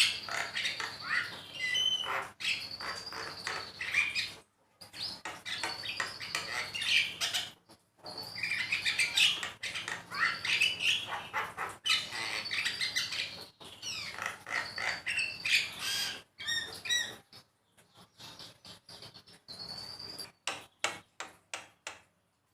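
Javan myna (jalak kebo) singing: bouts of harsh chattering and squawky notes mixed with clear whistles, broken by short pauses. Near the end it gives a run of sharp clicking notes.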